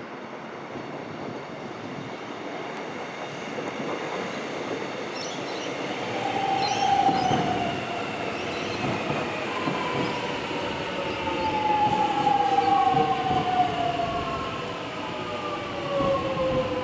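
Melbourne suburban electric train arriving and slowing at the platform. Its motors whine in several tones that fall steadily in pitch over the last ten seconds as it brakes, over rail and wheel rumble.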